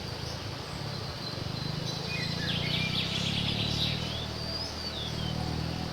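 Small birds chirping: a quick cluster of high chirps and short whistled glides about two seconds in, with a few more notes near four seconds, over a steady low rumble.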